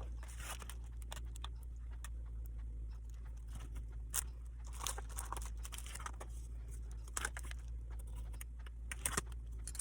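X-Acto craft knife trimming the edges of an adhesive sheet: scattered small scratching and ticking as the blade cuts and the sheet is handled, over a steady low hum.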